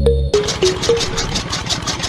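Background music cuts off about a third of a second in. A small motor-driven model machine takes over, running with a rapid, even clatter.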